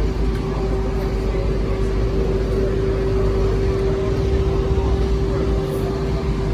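Car engine running steadily: a constant low rumble with a steady droning tone over it.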